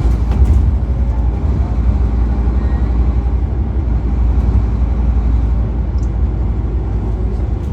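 Scania N230UD bus's five-cylinder diesel engine running steadily, its sound deepest and strongest at the bottom, with a few sharp clicks at the very start.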